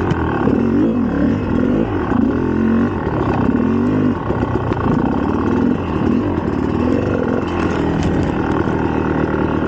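2004 GasGas EC300 300cc two-stroke single-cylinder engine being ridden, revving up and down several times in the first half, then running at a steadier pitch.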